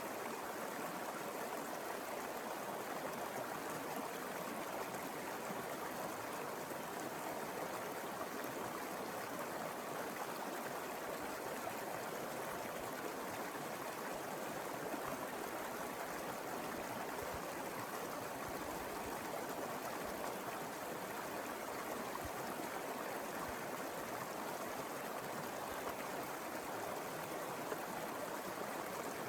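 Mountain stream flowing over rocks: a steady rushing and burbling of water that doesn't change.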